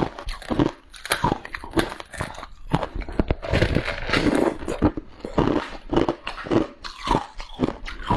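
Close-up biting and chewing of freezer frost: a quick, irregular run of soft crunches, several a second.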